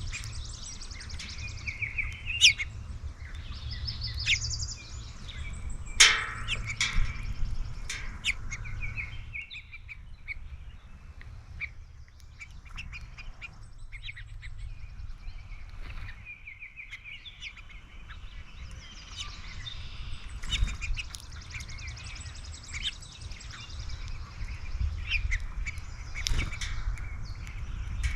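Several songbirds calling at a backyard feeder: repeated short chirps and fast trills, overlapping, with a sharp knock about six seconds in and a steady low rumble underneath.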